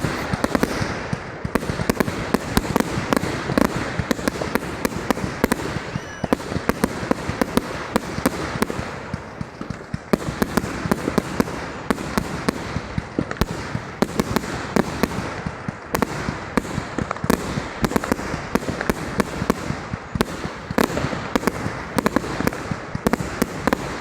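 A 30 mm consumer firework cake firing, a rapid, near-continuous run of launch shots and bursts several times a second.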